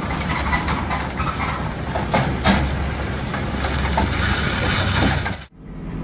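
Vehicle noise: a steady low road rumble with a few sharp knocks about two seconds in, then an abrupt cut about five and a half seconds in.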